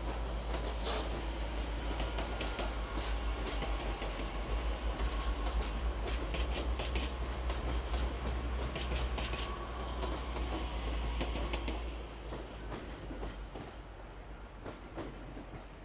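TER Aquitaine AGC multiple-unit train rolling past, its wheels clicking over the rail joints over a steady low rumble and a faint whine. The sound fades after about twelve seconds as the train draws away.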